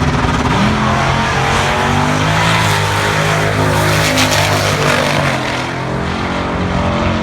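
A drag-racing car's V8 engine at full throttle, accelerating down the strip. Its note climbs about half a second in, the sound is loudest around four seconds in, and it eases off after about six seconds.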